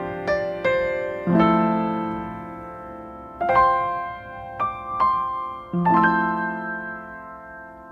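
Background piano music: slow, soft chords and single notes, each struck and left to ring out, the last chord fading away near the end.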